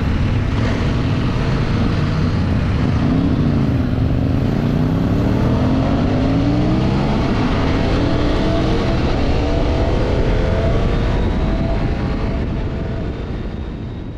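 The 2025 CFMoto Ibex 800 E's parallel-twin engine pulling under acceleration: the revs dip about 4 seconds in, then climb steadily, over a heavy rushing noise. It fades out near the end.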